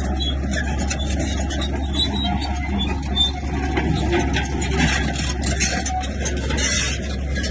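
Bulldozer's diesel engine running steadily with a constant low drone, and grinding, scraping noise and short high squeaks from the machine working over it.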